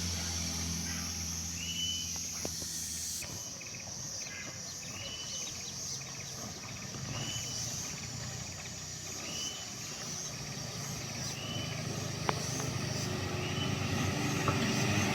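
A bird repeats a short chirping call about once a second over the low hum of a vehicle engine; the engine sound grows louder near the end.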